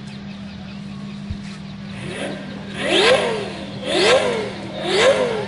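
Twin-turbo Lamborghini engine revved hard three times in quick succession, about a second apart, each rev rising and then dropping in pitch, over a steady low hum.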